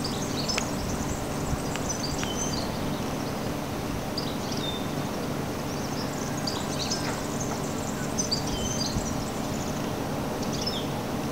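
Small birds chirping and whistling in scattered short high phrases, over a steady low background rumble.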